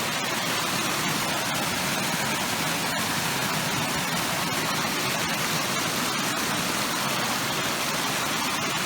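Steady, loud rush of flowing water from a mountain stream, an even hiss with no rhythm.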